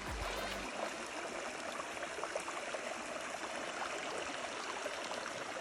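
Steady rush of flowing stream water. Background music cuts off less than a second in.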